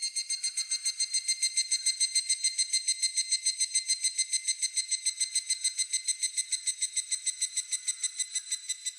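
Higurashi (evening cicada) singing: a rapid, ringing series of about eight pulses a second that swells in and holds steady, breaking off near the end.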